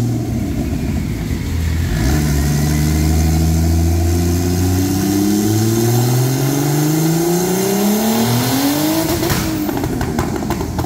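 Turbocharged BMW M50 straight-six stroker in an E36 making a full-throttle pull on a chassis dyno: the engine note climbs steadily for about seven seconds. About nine seconds in, the throttle closes and a run of sharp pops and cracks follows.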